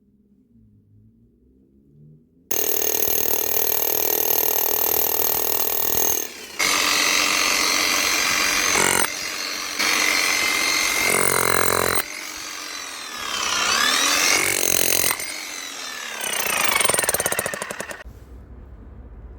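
Hilti TE 76-ATC rotary hammer running on a test after repair, starting suddenly about two and a half seconds in and stopping near the end. Its sound changes several times along the way, with the pitch sweeping up and down in the later part.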